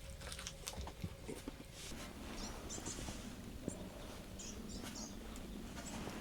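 Small birds chirping faintly: short, high, squeaky calls every second or so, with a few soft clicks in the first couple of seconds.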